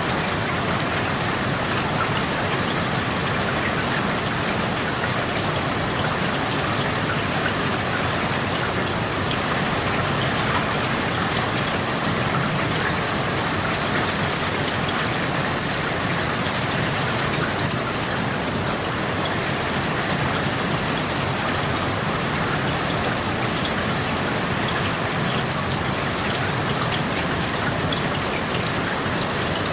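Steady rain falling, heard through an open window, with a dense patter of drops striking surfaces.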